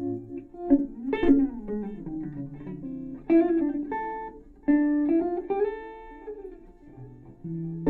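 Jazz guitar played through an amplifier: single-note lines and plucked chords, with strongly struck chords about a second in, near three and a half seconds and near five seconds that ring on.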